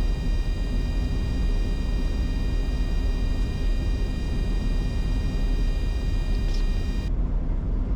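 Steady cockpit noise of a Bombardier Challenger 605 business jet on short final: a low airflow and engine rumble under a set of steady high-pitched whining tones. The high whine drops out about seven seconds in.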